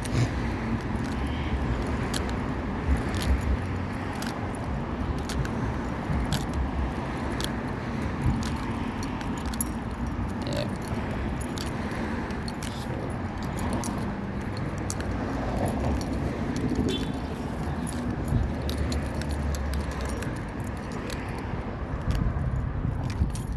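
Outdoor city ambience: a steady low traffic rumble under frequent small clicks and rustles, like a handheld camera or phone being handled or keys jingling.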